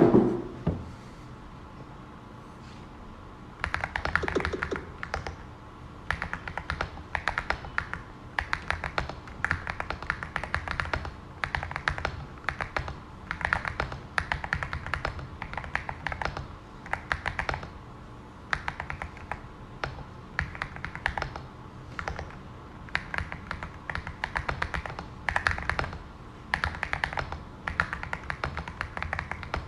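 Typing on a Cidoo V65 mechanical keyboard with Glorious Panda tactile switches on 67 g springs, modded with case, plate and IXPE foam, polyfill, force-break and tape. Keystrokes come in quick runs about a second long with short pauses between, beginning a few seconds in after a single thump.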